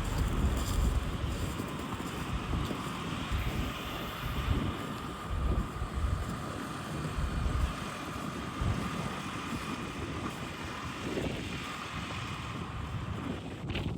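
Wind buffeting the microphone in uneven gusts, over a steady faint hum.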